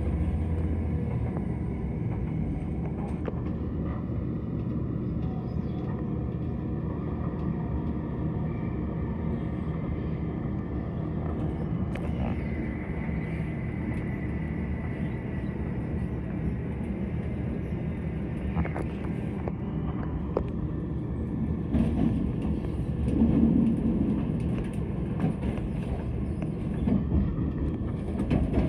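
Class 170 diesel multiple unit running at speed, heard from inside the passenger saloon: a steady rumble of the engine and the wheels on the rails, with a few louder bumps near the end.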